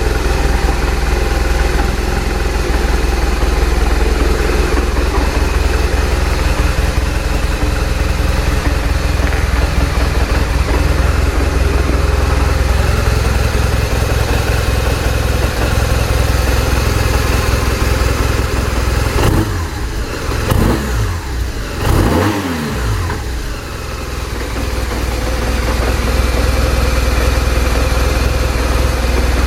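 BMW R1200RT's boxer twin engine idling steadily, then blipped a few times about twenty seconds in, the revs rising and falling before settling back to idle.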